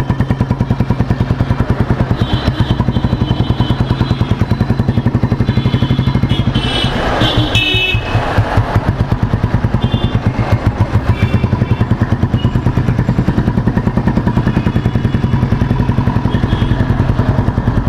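1970 Royal Enfield Bullet 350's single-cylinder four-stroke engine running under way, heard from on the bike as a steady, even beat of firing pulses. The beat eases briefly about seven seconds in.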